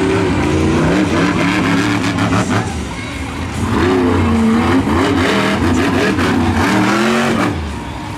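Monster truck engine revving, its pitch rising and falling again and again.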